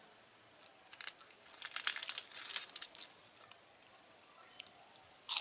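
Close chewing of crisp fried food, crunching in a dense run of crackles from about one to three seconds in, then a few faint ticks and a sharp crack near the end.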